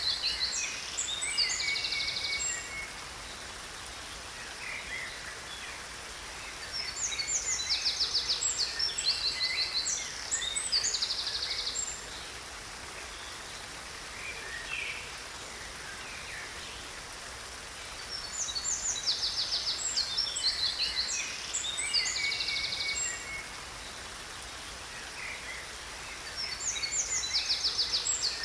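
Songbirds singing in bouts of fast high trills and chirps, separated by quieter gaps of several seconds, over the steady rush of a waterfall.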